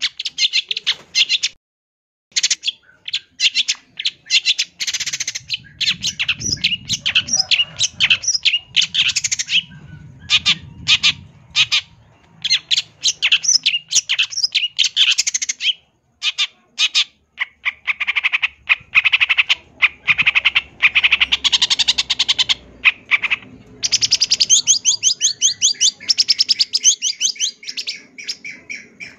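Long-tailed shrike (cendet) singing a fast, varied stream of chirps and harsh squawks, with short breaks about two seconds and sixteen seconds in. The song is packed with phrases mimicked from other birds.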